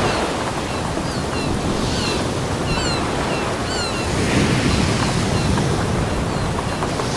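Ocean surf washing onto a beach: a steady rush of breaking waves that swells about four seconds in. Faint short high chirps sound over it in the first half.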